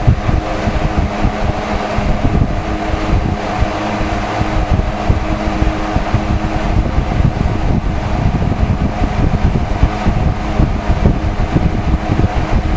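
Five-bladed box fan running steadily on its highest of three speeds: a loud rush of air with a steady hum, and a rough low rumble from the airflow buffeting the microphone.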